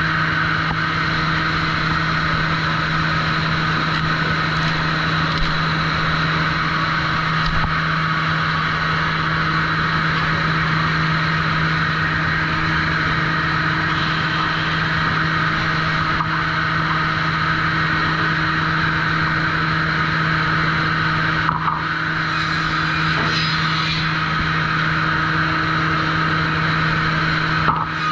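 Sawmill machinery running steadily: a constant droning hum with a steady higher band of noise, and a couple of brief knocks near the end.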